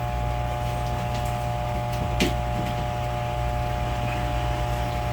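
Steady machine hum with fixed tones, broken by a few short sharp taps, the loudest about two seconds in.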